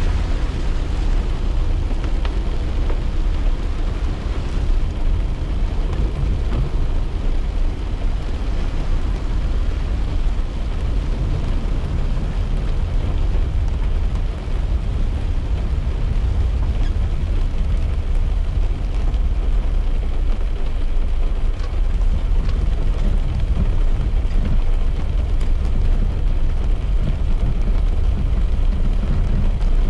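Steady low rumble of a car driving on a wet road, heard from inside the cabin, with rain on the car and a few faint drop ticks.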